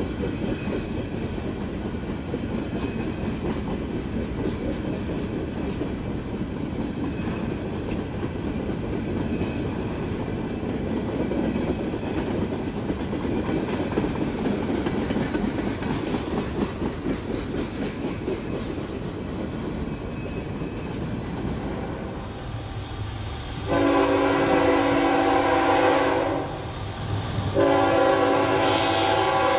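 Freight cars rolling past with a steady rumble and clickety-clack of wheels on rail joints. About 24 s in, a diesel locomotive's air horn sounds two long blasts, a little over a second apart.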